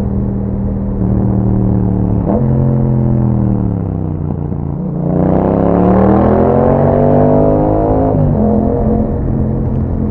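2021 Yamaha MT-07's parallel-twin engine running through an Akrapovic exhaust while riding. Engine speed sinks for a couple of seconds. About halfway through it gets louder and climbs steadily in pitch, then drops sharply, as at a gear change, and holds steady.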